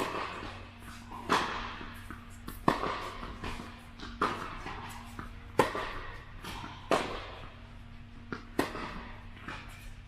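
Tennis balls struck by rackets in a rally, one sharp pock about every second and a half, with fainter taps between.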